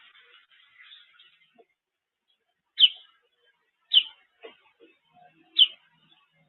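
Songbird chirping: soft twittering at first, then three loud, sharp single chirps, each falling in pitch, a little over a second apart.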